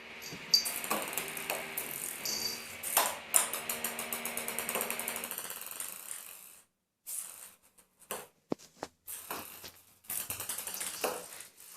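Ping-pong ball hitting a hard floor: scattered clicks, then a fast run of evenly spaced ticks a few seconds in as the ball bounces, then a few more clicks near the end.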